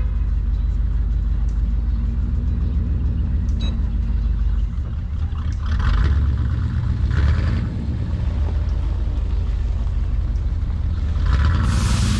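Steady low rumble of a vehicle driving on the road, with two brief louder rushes about six and seven seconds in.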